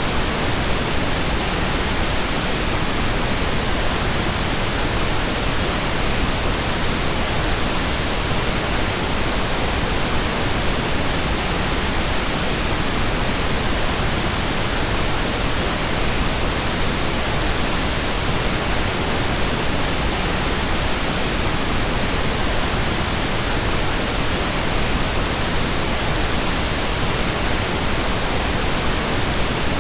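Steady, unchanging pink noise: an even hiss spread across the whole range, with no breaks or events.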